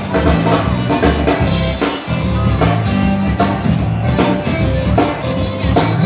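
A zydeco band playing live, with a steady drum beat under the music.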